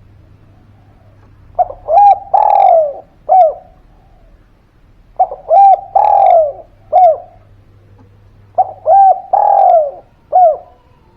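Spotted dove singing its cooing song: three phrases of four or five hooked, falling coos, each phrase about two seconds long and repeated every three to four seconds. It is a lively, persistent song of the kind played to prompt silent doves to answer.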